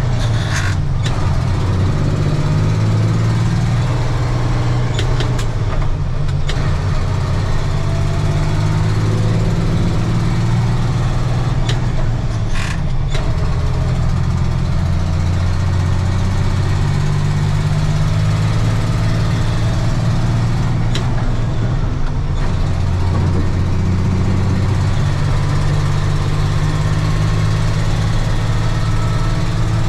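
1995 Ford L8000 truck's diesel engine running: a steady low drone whose pitch shifts up and down slightly a few times, with a few brief sharp clicks.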